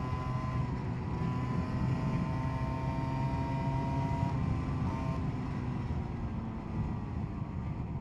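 SYM Jet2 50 scooter's two-stroke engine running steadily under way, its pitch easing slightly about halfway through and the level dropping a little near the end.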